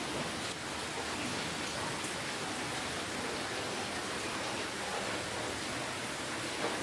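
Steady rainfall: a dense, even hiss of rain with faint scattered drop ticks.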